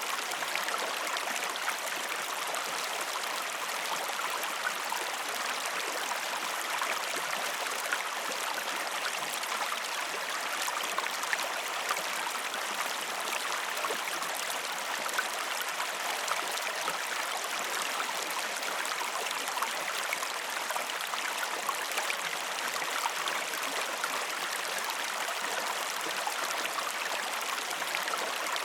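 River water flowing steadily: an even rush with many small splashes and trickles throughout.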